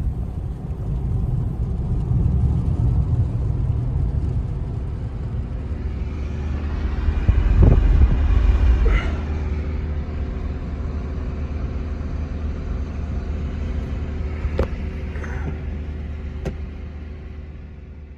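A motor vehicle's engine running with a steady low rumble, swelling about 7 to 9 seconds in, with a few sharp clicks near the end.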